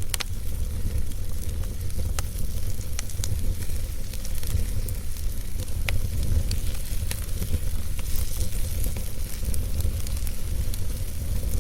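Wood fire burning in a fireplace: scattered sharp crackles and pops at uneven intervals over a steady hiss and a steady low rumble.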